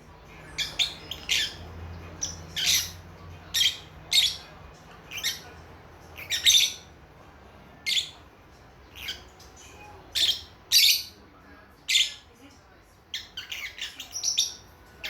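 Young lovebirds chirping: short, high-pitched calls about once a second, turning into a quicker run of chirps near the end.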